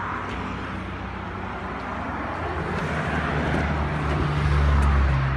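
Car engine idling, a low steady hum that grows louder from about halfway through and is loudest near the end, over a faint rushing noise.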